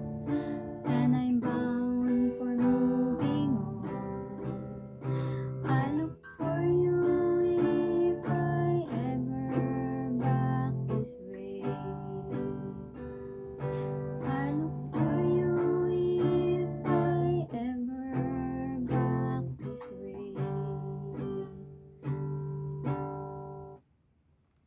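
Acoustic guitar strumming chords in a steady rhythm, the instrumental close of the song, ending abruptly a second before the end.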